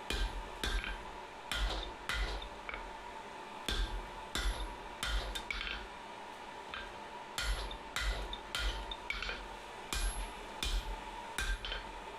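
Hand hammer striking hot steel on an anvil, drawing out round bar stock: sharp ringing blows in quick runs of several, about two to three a second, with short pauses between the runs.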